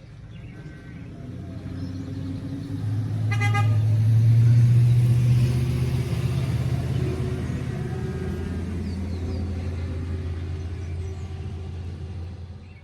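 The neighbors' vehicle pulls out and drives past, its engine growing loudest about four to five seconds in and then slowly fading. A short horn toot sounds about three seconds in.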